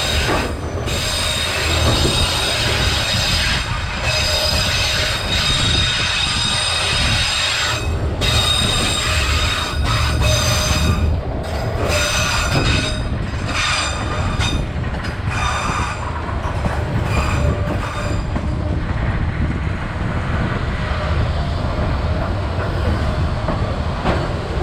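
Vietnam Railways SPT1 passenger train running on the rails: a steady low rumble with irregular clacks from the track and a high, steady squeal from the wheels that fades over the last part.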